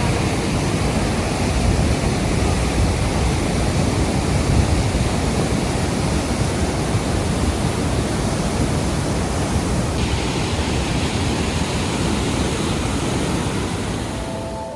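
Steady rushing of flowing water, a dense even hiss with a churning low rumble, turning slightly duller about ten seconds in.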